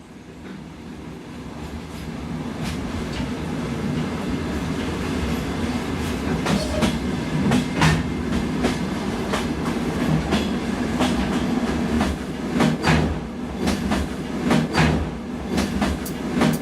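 Passenger train running at speed, its wheels rumbling and clattering over the rail joints in irregular clicks and knocks. The sound fades in over the first few seconds.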